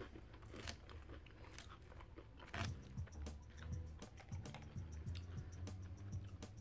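Close-miked chewing of a mouthful of Caesar salad, with a few sharp crunches in the first few seconds.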